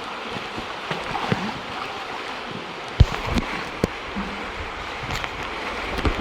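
Steady rush of running water in a cave, with two sharp knocks about three and four seconds in.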